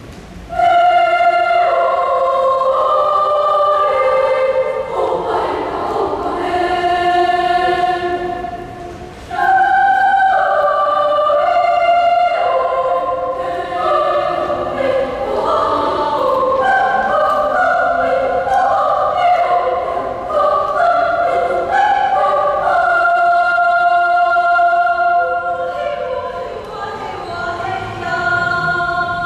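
Junior-high school choir singing an Indonesian Papuan folk song in held, sustained chords. The singing begins about half a second in and breaks briefly near the nine-second mark.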